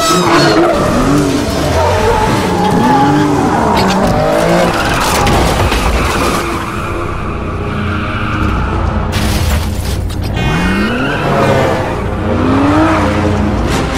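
Car chase sound mix: car engines revving up and down in repeated rising-and-falling sweeps, with tyres squealing and music underneath. Sharp bangs about nine seconds in.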